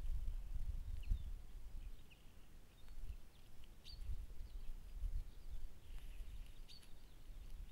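Small birds chirping in short scattered calls over a low rumbling noise.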